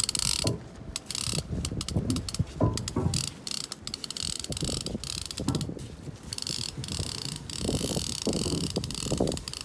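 Big-game conventional fishing reel being worked against a large shark, its gears and ratchet clicking unevenly amid low rumbling handling noise.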